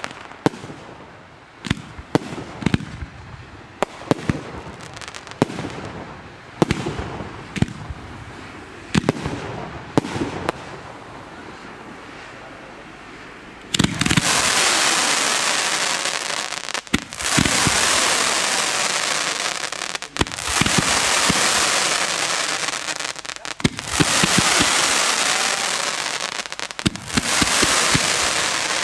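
Fireworks display: scattered sharp bangs and crackles for about the first fourteen seconds. Then comes a sudden loud rushing hiss of rising comets and ground fountains firing, broken by pops and dipping briefly every few seconds.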